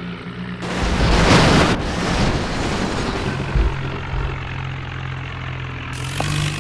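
Tractor engine running steadily, with a loud rushing burst of noise about a second in and the engine note rising near the end.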